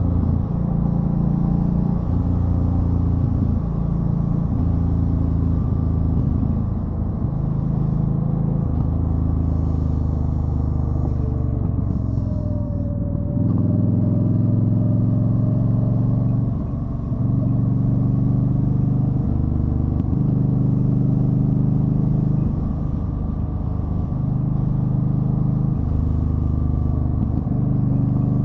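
A 2013 Yamaha Stryker's V-twin engine running while riding. Its low note steps up and down in pitch every second or two as the throttle changes.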